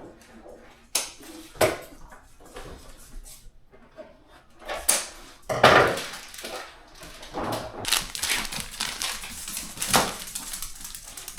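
Objects and packaging being handled: irregular clicks, knocks and rustling, with a few louder knocks.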